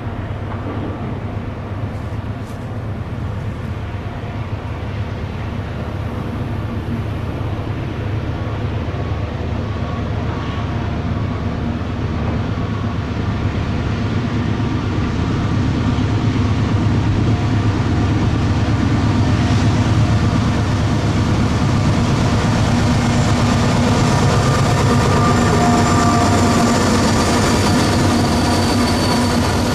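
Norfolk Southern freight train rolling past with a steady low rumble and steady engine tones. It grows louder over the second half.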